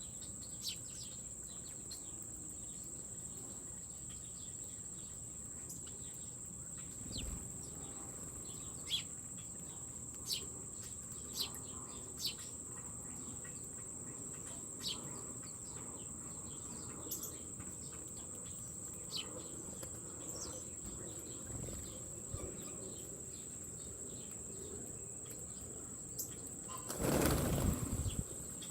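Steady high-pitched insect song with scattered short bird chirps. Near the end comes a brief loud flutter of bird wings.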